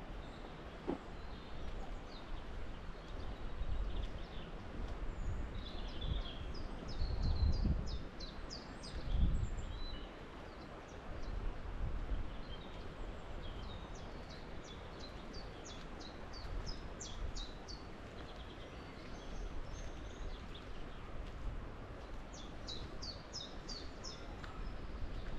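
Wind gusting over the microphone as a low rumble, strongest about a third of the way in, with songbirds singing repeated phrases of quick, high chirps in between.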